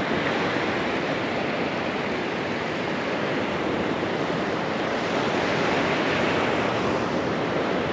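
Steady rush of surf breaking on a sandy Gulf of Mexico beach, with wind across the microphone.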